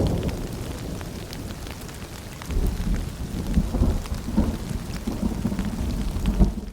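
Rain falling with rolling thunder: a deep rumble fades over the first couple of seconds and another builds about two and a half seconds in, over a steady patter of drops.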